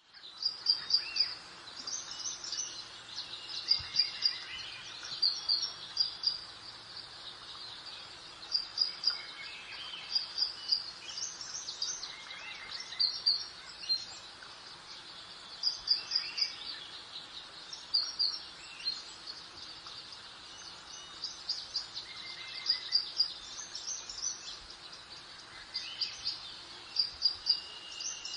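Birds singing in a garden: short, bright chirping phrases repeating every second or two, over a soft steady hiss of breeze.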